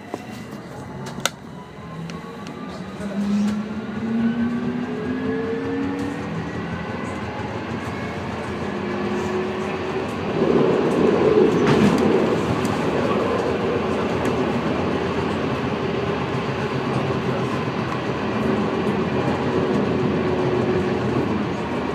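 Light rail tram pulling away: the whine of its electric traction motors rises in pitch over the first few seconds, then gives way to steady running noise on the rails. About halfway through there is a louder stretch of rumbling and rattling.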